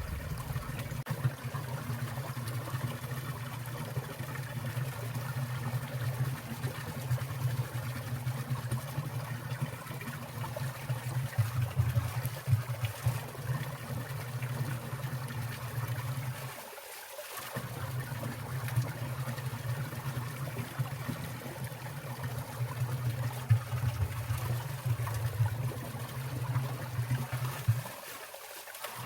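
A winter mountain stream running and trickling, with water dripping and splashing from icicles in frequent small drips over a steady low rush. The low rush drops out briefly twice, about halfway through and near the end.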